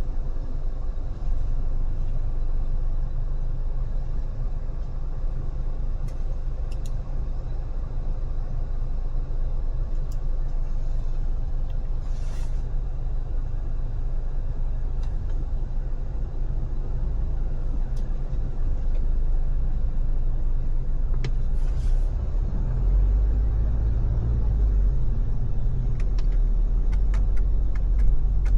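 Car driving on a freeway: a steady low rumble of road and engine noise that grows heavier about three-quarters of the way through, with a few brief hisses and faint clicks.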